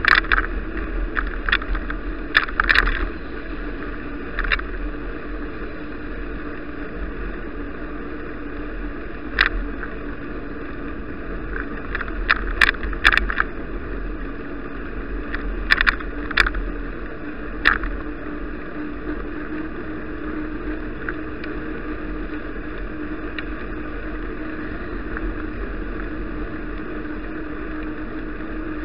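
Steady rumble and hum of a bicycle riding along a road, heard through an action camera, with sharp knocks and rattles over bumps now and then, mostly near the start and in the middle.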